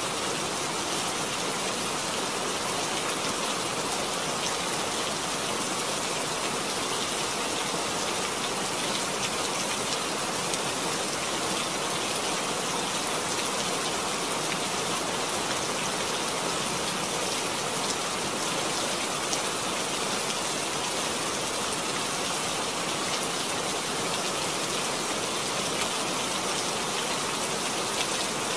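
Heavy rain pouring onto wet ground: a steady, dense hiss of splashing drops.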